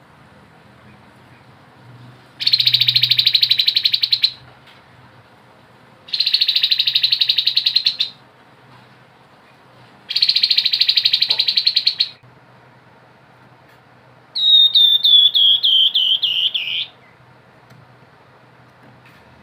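Grey-headed babbler singing: three rapid buzzing trills of about two seconds each, then a quick run of about nine slurred notes falling in pitch. A faint low hum runs underneath.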